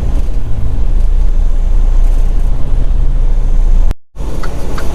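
Semi truck running down the road, heard from inside the cab: a loud, steady low rumble of diesel engine and road noise. Just before the end the sound cuts out for an instant and comes back as the truck running slower, with a light regular ticking about three times a second.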